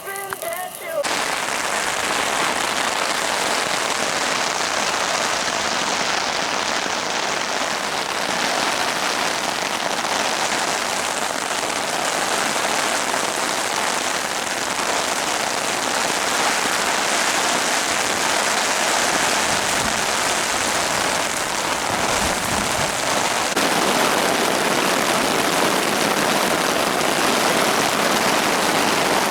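Steady heavy rain falling, a dense even hiss that grows a little louder about two-thirds of the way through.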